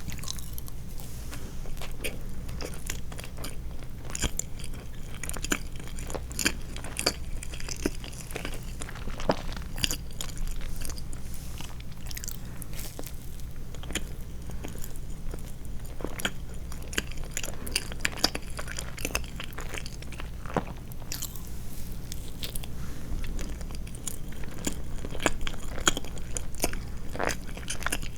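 A person chewing and biting soft sweets close to the microphone: a continual run of wet mouth clicks and smacks with occasional crunches, over a steady low hum.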